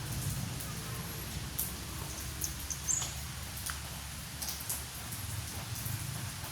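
Storm wind buffeting the microphone as an uneven low rumble, with scattered sharp ticks throughout.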